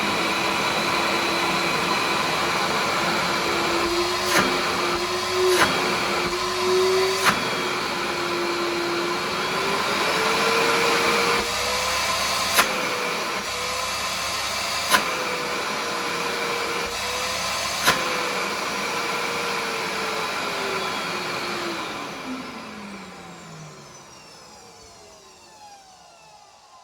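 TACKLIFE 6-gallon stainless steel wet/dry shop vacuum running on a short test, its motor whine stepping up in pitch about a third of the way in, with a few sharp clicks along the way. Near the end it is switched off and the whine falls in pitch as the motor spins down.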